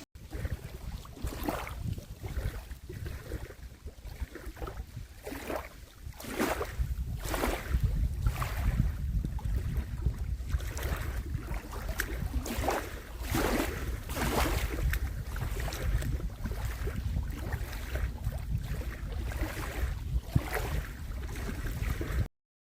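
Wind buffeting the microphone with a heavy rumble, over a string of short swishing sounds about once a second, like water lapping; it cuts off suddenly near the end.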